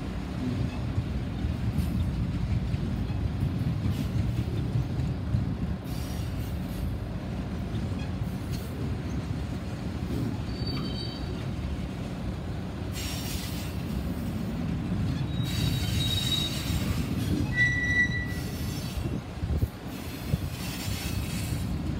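Freight train cars of a mixed freight rolling past with a steady low rumble. Brief high wheel squeals come a few times around the middle and toward the end.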